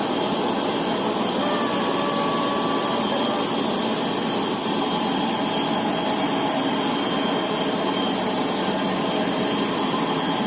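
Jet airliner cabin noise: the engines and air system run as a steady rushing drone with thin, constant high whines.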